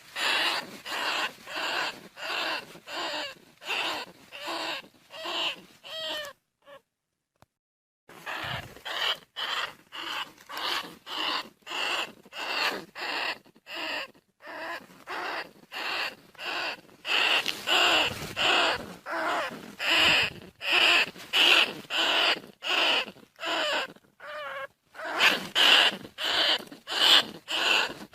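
Bandicoot rat calling: short squeaking calls repeated about two a second, with a break of about two seconds starting about six seconds in.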